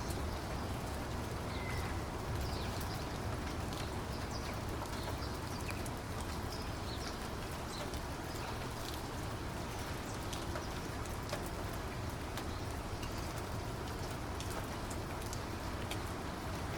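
Steady rain falling, a constant hiss dotted with many small, sharp drop ticks.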